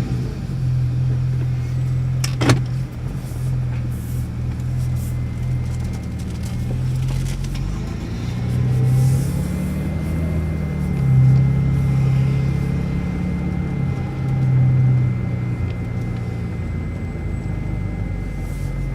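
BMW 328i E90's inline-six engine with a muffler delete running just after start-up, with a loud flare at the very start and then a steady low exhaust drone. A sharp click comes about two and a half seconds in, and the engine note swells and rises twice around the middle.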